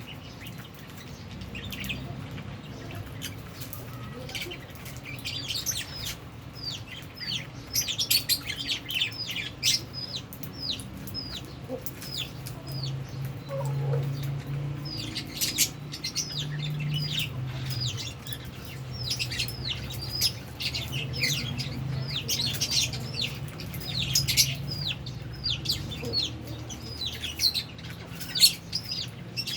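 A colony of lovebirds, albino and Fisher's, chirping: many short shrill chirps in busy overlapping bursts, over a low steady hum.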